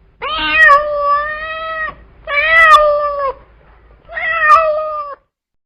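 A cat meowing three times in long, drawn-out, steady-pitched calls, the first the longest.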